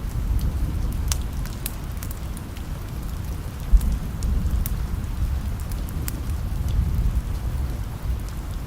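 Steady rain with a low rumble underneath and scattered sharp crackles and pops from a wood fire, one louder pop a little under four seconds in.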